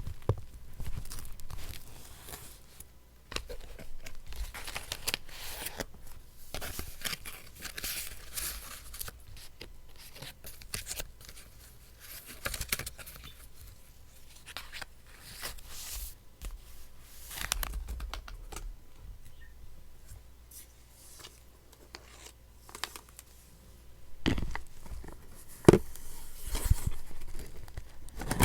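Paper being torn and handled for a collage: irregular ripping and crinkling strokes, with a few louder knocks near the end.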